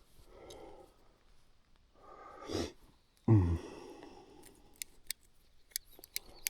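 Breathing close to the microphone inside a motorcycle helmet, with a short grunt about three seconds in. It is followed by a string of sharp, irregular clicks near the end.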